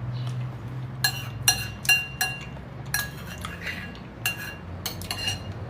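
A spoon clinking against a bowl while eating: about a dozen irregular clinks, several ringing briefly.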